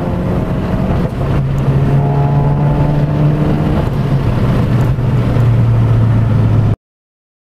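Turbocharged four-cylinder engine of a Volkswagen Golf MK7 under acceleration through an Armytrix cat-back exhaust, pitch climbing, then dropping with gear changes about a second in and again around four seconds in. The sound cuts off abruptly near the end.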